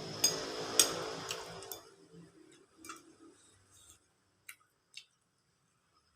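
Eating sounds close to the microphone: four sharp clicks over a noisy stretch in the first two seconds, then a few fainter, scattered clicks.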